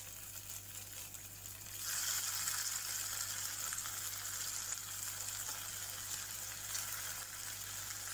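Chana dal vadas sizzling in hot oil in an aluminium kadai, put back in for their second fry. The sizzle grows louder about two seconds in as more vadas go into the oil, then holds steady.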